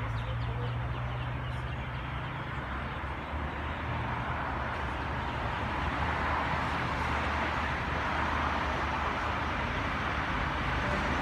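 Sydney Trains Waratah (A-set) electric train approaching and running into the platform, a steady rolling rumble with a low hum that builds slowly louder.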